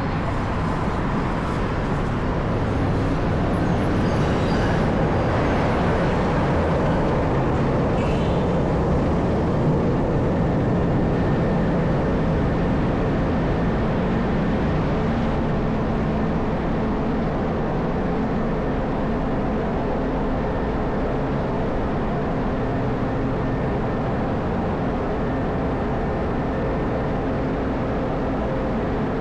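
Steady low rumble of downtown street and rail traffic, with faint steady whining tones joining partway through.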